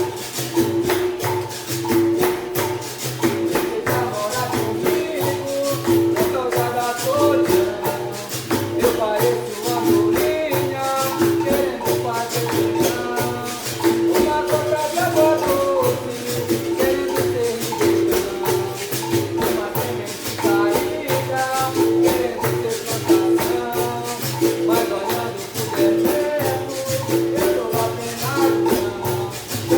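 Capoeira percussion playing a steady rhythm: berimbau notes repeating over pandeiro jingles and the shaken rattle of a caxixi.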